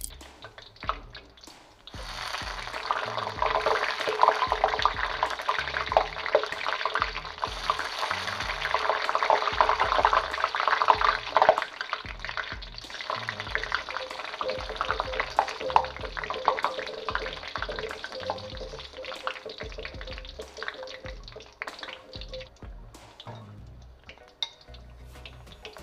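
Pork skin frying in hot oil in a wok, a dense crackling sizzle as the skin puffs into chicharon. It starts about two seconds in, is loudest in the first half and thins out toward the end.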